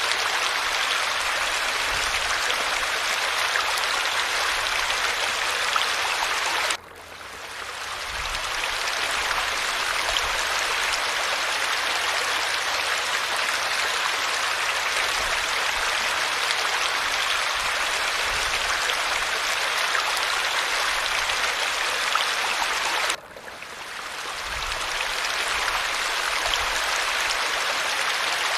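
Falling water, a steady rushing splash. It cuts out suddenly twice, about seven seconds in and again near 23 seconds, each time fading back up over a second or two.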